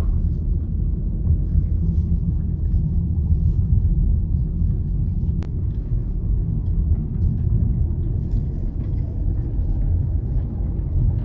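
Steady low road and engine rumble of a car driving, heard from inside the cabin, with a single faint click about halfway through.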